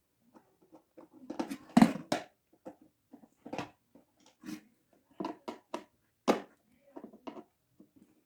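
Irregular clicks and knocks of an electric kettle's parts being handled and taken apart, with the loudest cluster of knocks about two seconds in.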